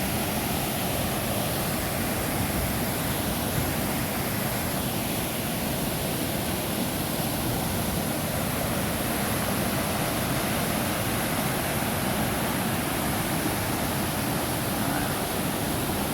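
Creek in full snowmelt flood, water rushing steadily over rocks.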